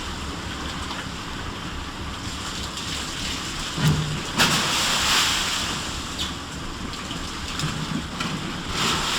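Sea waves washing and breaking, a steady rush of water with a heavy surge of spray about four seconds in and another near the end.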